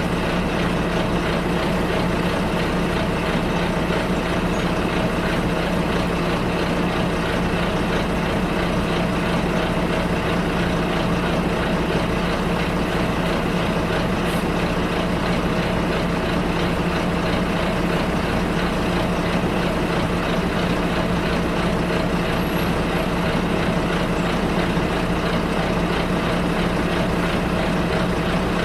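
Bus engine and road noise heard from inside the bus while it drives: a steady low drone that does not change in level.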